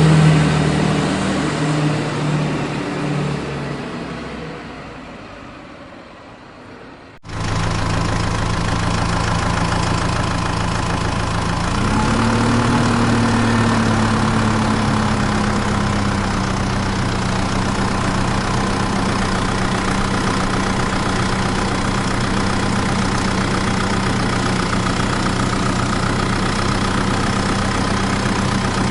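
A vehicle engine sound fades away over the first several seconds, then a heavy engine abruptly starts up idling about seven seconds in. It revs up briefly a few seconds later, then settles back to a steady idle.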